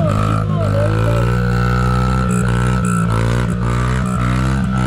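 Small youth dirt bike engines revving up and down over and over. A steady low engine hum runs underneath.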